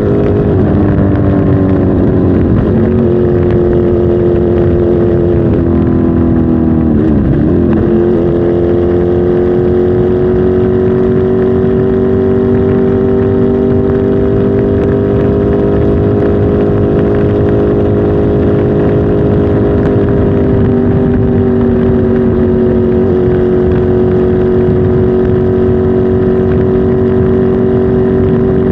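Kawasaki Z H2 SE's supercharged inline-four engine running steadily, its pitch dropping and coming back up about seven seconds in, then holding nearly level.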